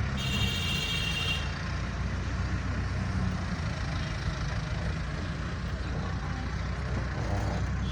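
Steady road traffic and vehicle engine noise, with a high-pitched squeal lasting about a second and a half at the start.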